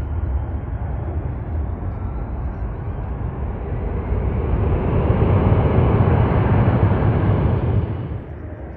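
Jet airliner engine noise as a plane passes: a steady rushing roar that swells over the second half and then drops off sharply near the end.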